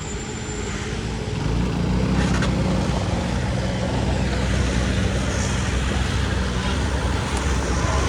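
Motorcycle engine running under an even rush of wind and road noise, picking up and getting louder about a second and a half in, then holding steady.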